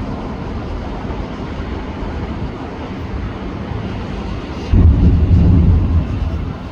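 Fireworks going off in a continuous low rumble of booms. A louder run of booms starts suddenly about two-thirds of the way through and lasts a second or so.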